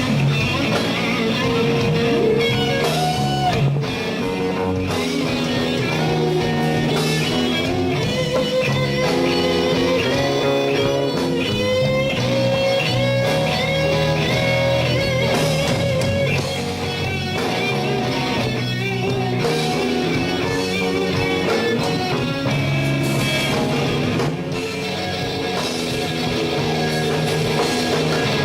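Electric guitar playing a blues solo with bent, wavering notes over bass and drums.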